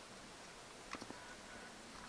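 A few small, faint clicks about a second in, from parts and tools being handled while taking apart an outboard remote control box, over a low steady hiss.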